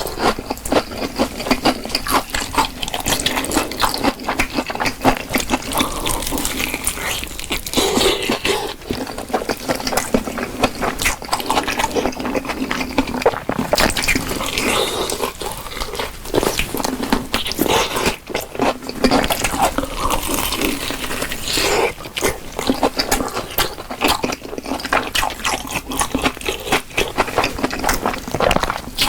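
Close-miked eating: a person biting and chewing fried chicken, with wet, smacking mouth sounds and many small clicks.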